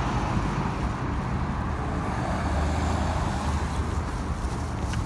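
Street traffic: the steady rumble of passing cars and trucks.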